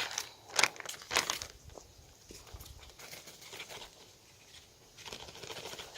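A plastic Ziploc bag rustling and crinkling as powdered peanut butter is transferred into it. There are a few sharper taps and rustles in the first second and a half, then a lighter crinkling that grows denser near the end.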